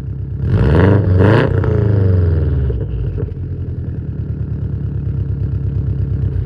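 Subaru WRX STI GDB's turbocharged flat-four engine through a Tomei Expreme Ti titanium exhaust: idling, blipped twice in quick succession about half a second in, then the revs fall back and it settles to a steady idle.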